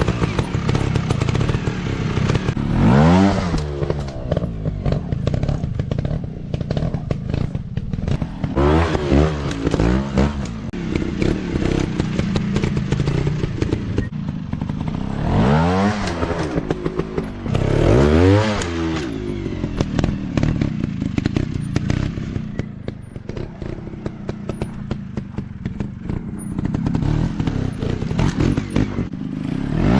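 150 cc motocross bike engine revving hard and easing off over and over. The pitch rises and falls in about five strong surges, with lower running between them.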